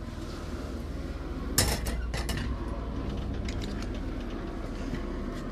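A sharp clack about a second and a half in, followed by a few lighter clicks, over a steady low hum: bicycle parts being handled during a teardown.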